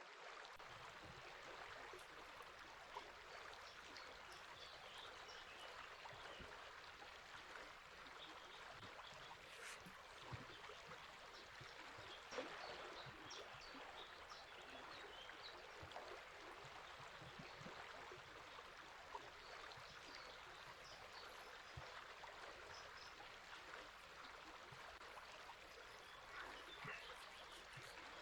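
Faint, steady rush of flowing river water, with brief bird chirps scattered through it.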